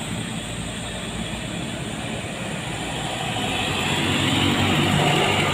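Heavy truck's diesel engine labouring up a steep climb under load, a steady low drone that grows louder from about three seconds in as the truck comes closer.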